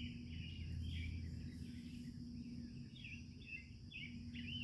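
Faint bird chirping: a run of short, quick chirps, several a second, over a steady high-pitched hum and low outdoor background noise.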